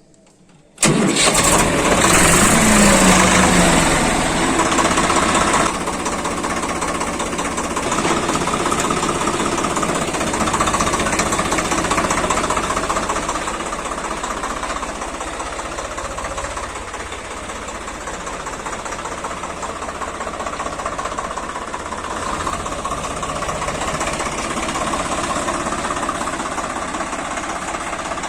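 Swaraj 855 FE tractor's diesel engine running steadily. It comes in suddenly about a second in and is loudest over the first few seconds.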